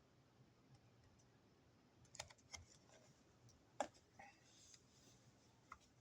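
Near silence with a handful of faint clicks and light handling noises, starting about two seconds in, from a picture book's pages and lift-up flaps being handled.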